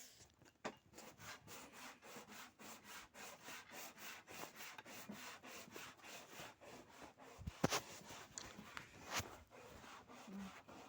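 Rapid back-and-forth scraping strokes, about five a second, as of hand work on a part, with two sharper knocks in the later part.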